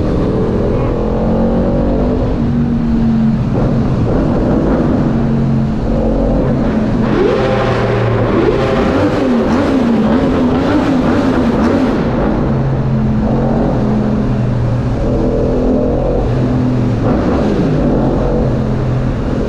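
Motorbike engine running under way, its pitch stepping up and down, with a run of quick rises and falls between about 7 and 12 seconds in.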